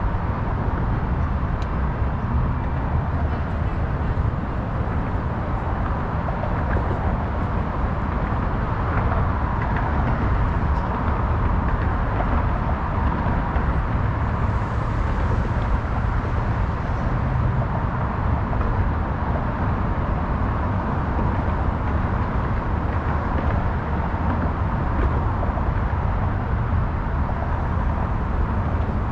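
Steady, unbroken city traffic noise, a constant low rumble of passing road vehicles with no single event standing out.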